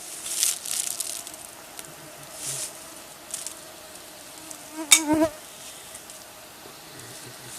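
Flying insects buzzing close by, a steady wavering hum, with one loud buzzing pass right by about five seconds in. A few short soft rustles come and go.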